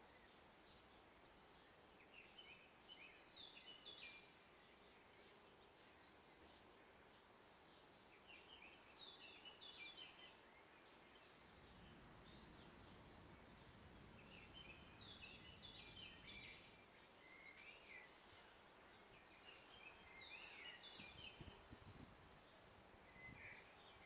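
A songbird singing short phrases of quick high notes, repeated about every five or six seconds, faint over a steady forest background hiss. A low distant rumble passes in the middle.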